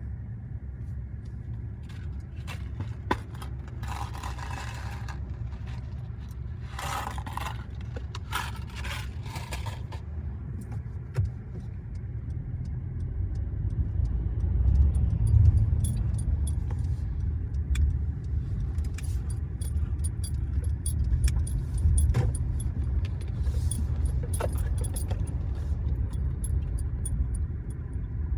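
Car driving, heard from inside: a steady low road-and-engine rumble that grows louder about halfway through. Frequent light, high metallic clicking and jingling runs over it, with a few short hissing swishes in the first third.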